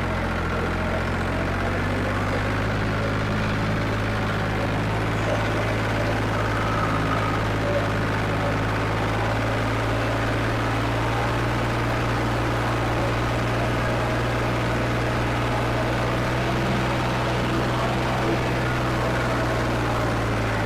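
Farmtrac 55 tractor's diesel engine, fitted with Farmtrac 60 T20 pistons and a modified injection pump, running at a steady, unchanging speed.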